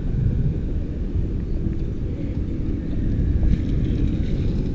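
Low, steady rumble of road traffic along a town street.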